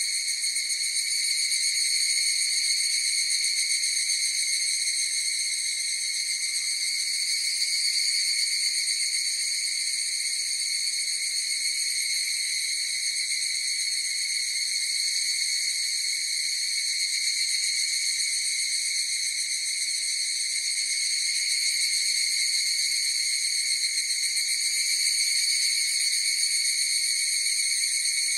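Chorus of higurashi (evening cicadas) as a steady, unbroken shrill drone, swelling and easing slightly in loudness.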